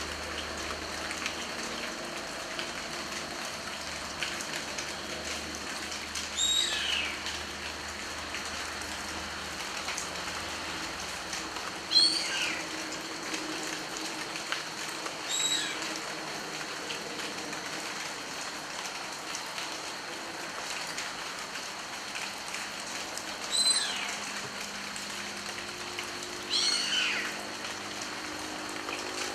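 Steady rain falling, with scattered drop ticks. A bird gives a short call that falls in pitch, five times, the loudest about halfway through.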